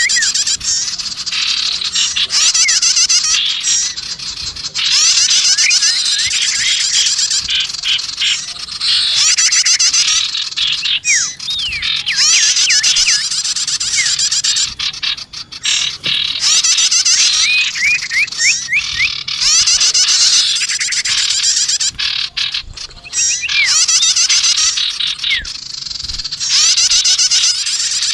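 Bird-luring recording of small songbirds, sirtu and prenjak calls layered together: dense, high-pitched rapid trills and chirps in repeated phrases of a few seconds, broken by short gaps.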